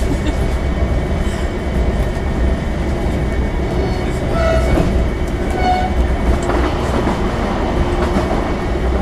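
Running noise of a Desiro diesel multiple unit at speed, heard from inside the car: a steady rumble of wheels on rail with some clickety-clack. Two short pitched tones sound about halfway through.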